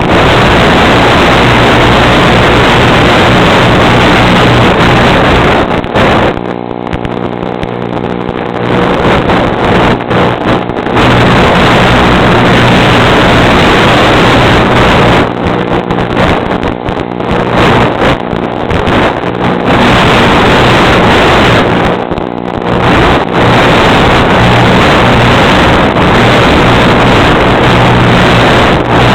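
Loud wind rushing over a small camera microphone with the steady hum of a small electric motor underneath. The wind eases briefly several times, and the motor's tone stands out more when it does.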